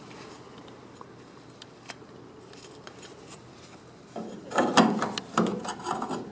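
Low steady hiss with a few light clicks, then about four seconds in a couple of seconds of loud clattering and scraping as hard objects are handled, the kind of noise tools or metal parts make in a garage workshop.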